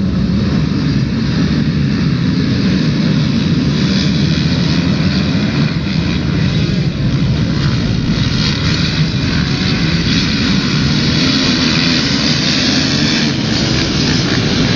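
Motocross bike engine running hard at race pace: a loud, steady drone with a rushing hiss over it.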